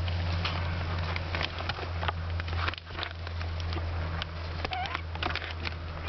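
Month-old kittens scampering and tussling at play: a patter of light, irregular taps and scuffles over a steady low hum, with a brief faint squeak near the end.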